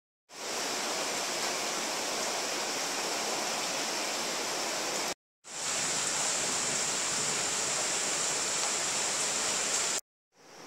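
Heavy rain pouring down as a steady hiss, cut off abruptly for a moment about five seconds in and again near the end.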